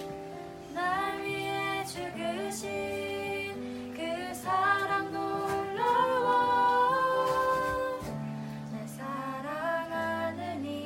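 Female voices singing a slow worship song in phrases over held accompaniment notes that change pitch underneath.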